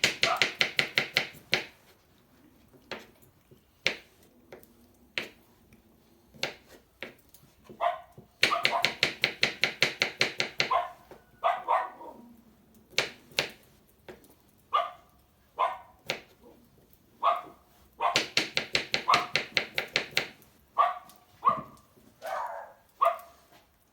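Knife chopping vegetables on a cutting board in three quick runs of about eight strokes a second. Short barks from a dog come in between the runs.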